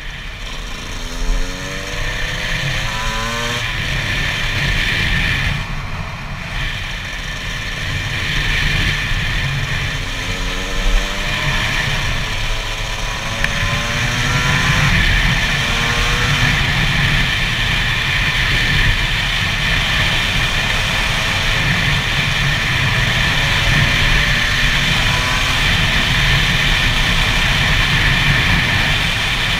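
Gas Gas EC SMR 125 two-stroke engine on the move, rising in pitch a few times in the first half as the bike accelerates through the gears, then running steadier, over a constant low rumble.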